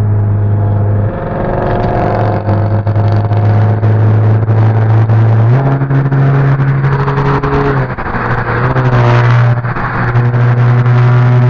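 Car engine and road noise heard from inside the cabin while driving, a steady low drone whose pitch steps up about five and a half seconds in as the car speeds up.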